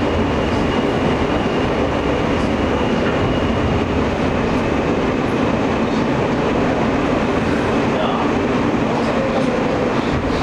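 Inside an Alstom R160A New York City subway car running through the tunnel: a steady, loud rumble of wheels on the rails and running gear.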